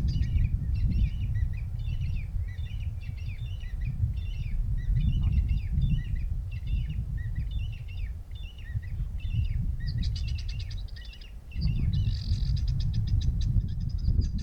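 Birds calling over and over in short warbling phrases, with a fast buzzing trill near the end, over a steady low rumble.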